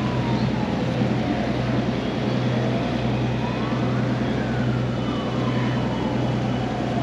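Steady low drone of a river ferry's engine. A faint siren wails slowly up and down over it, each sweep about two seconds long.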